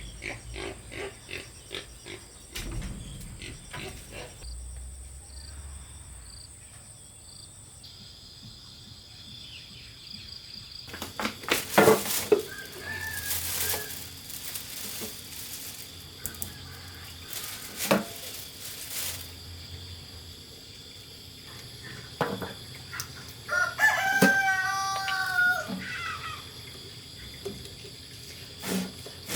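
A rooster crowing once near the end, with scattered knocks and clatter before it.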